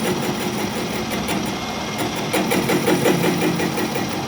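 A machine running with a rapid, even clatter of about eight pulses a second, strongest in the middle.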